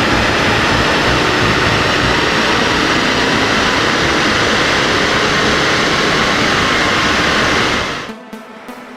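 Mercedes C 220 d's four-cylinder diesel being run hard on a rolling-road dynamometer, heard as a loud, steady rushing noise of engine, tyres and rollers. It drops away abruptly about eight seconds in.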